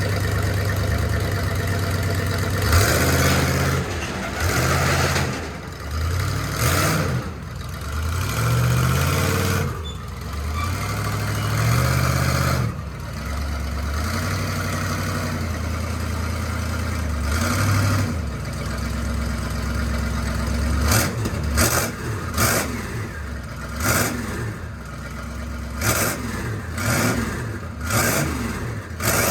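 Twin-turbo, carbureted small-block Chevy 350 V8 running and being revved, its pitch rising and falling with the throttle. Near the end come a series of short, sharp throttle blips.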